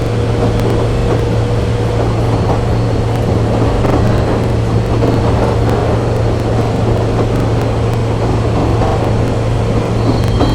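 Train running: a steady rumble with a constant low hum.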